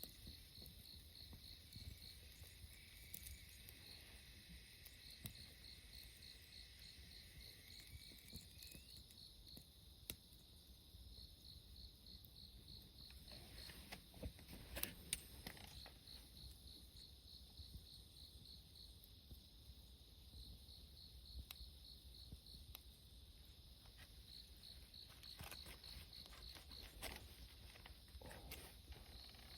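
Faint insects, likely crickets, chirping in repeated trains of quick high pulses with short pauses between them. A few sharp crackles stand out, the loudest about fifteen seconds in.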